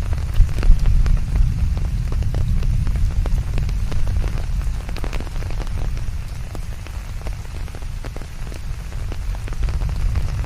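Rain falling steadily, with many separate drops clicking close by, over a deep, steady rumbling noise, mixed with white noise. It eases slightly in the second half and builds again near the end.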